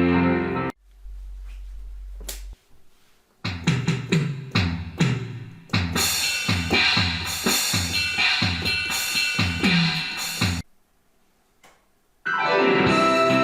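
Donner DEP-20 digital piano playing its built-in sounds: a held keyboard chord stops under a second in, then drum-kit hits with falling pitch build into a busy drum rhythm with keyboard notes. After a short pause, a sustained organ-like chord starts near the end.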